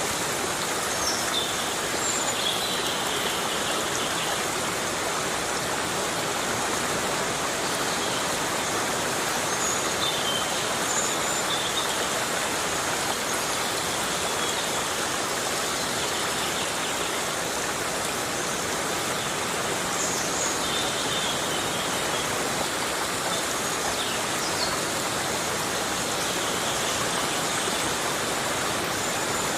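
Heavy rain falling steadily on rainforest foliage: an even, unbroken hiss, with a few brief faint high chirps here and there.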